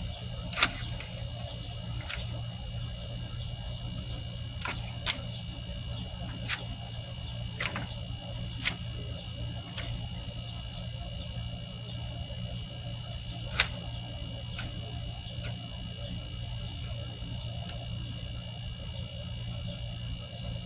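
Sharp snaps and cracks of freshly cut tree limbs being cut up into pieces, about ten at irregular intervals, the loudest near the start and about two-thirds of the way through.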